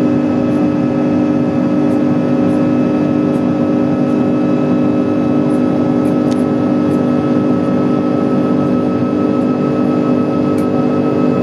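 Jet airliner cabin noise in the climb after takeoff: a steady engine and airflow drone with several fixed humming tones over it.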